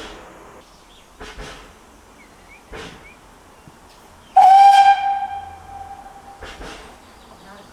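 Narrow-gauge steam locomotive whistle sounding once, about halfway through: a loud, shrill blast held for about a second that then fades away over the next two. Around it come soft, regular chuffs from the locomotive's exhaust, roughly one every second and a half.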